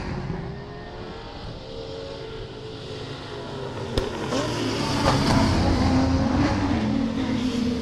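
Racing cars' engines running hard past the track, several at once, pitch falling as they ease off and change down, getting louder from about five seconds in as cars come closer. A sharp click about four seconds in.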